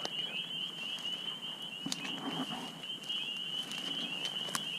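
A steady high-pitched night chorus trilling continuously, with a few sharp clicks and snaps from footsteps or handling.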